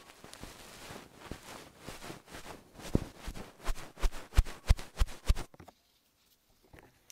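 ASMR scratching close to the microphone, then a quick run of hard knocks, about three a second, that stop abruptly about five and a half seconds in.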